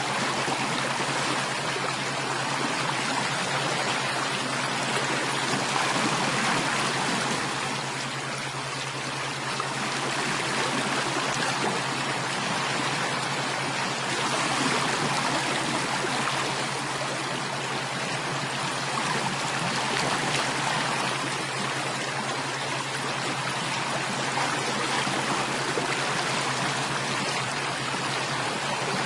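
Steady running water of a stream, an even rushing and trickling that swells gently now and then, over a faint steady low hum.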